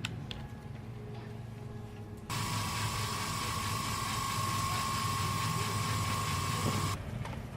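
A power tool starts abruptly about two seconds in, runs with a steady whine and hiss for about four and a half seconds, then cuts off, over a steady low hum.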